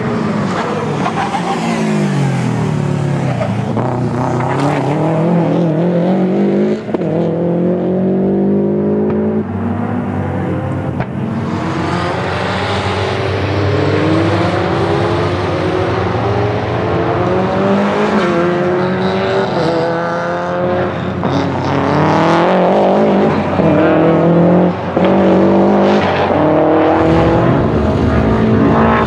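Subaru Legacy RS Group A car's 2.0-litre turbocharged flat-four boxer engine at full racing pace, its pitch climbing and falling back again and again as the car accelerates, changes gear and lifts.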